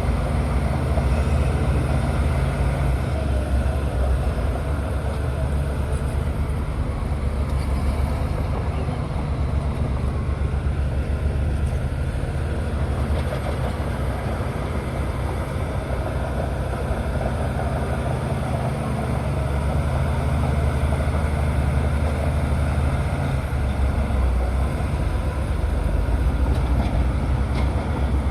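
Bulldozer's diesel engine running steadily with a deep drone, easing a little in the middle and building again near the end.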